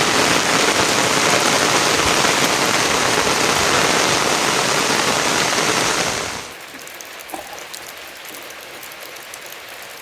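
Heavy rain as a loud, steady hiss that drops off sharply about six and a half seconds in to lighter rain with scattered drips.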